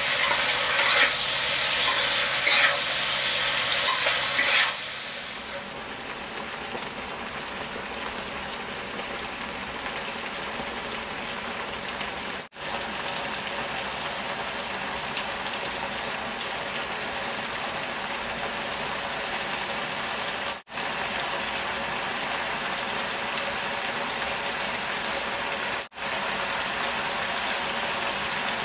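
Stir-fry of long eggplant, minced pork and Thai basil sizzling in a pan, with a spatula scraping and stirring for the first few seconds. The sizzle then drops to a softer, steady hiss that cuts out for an instant three times.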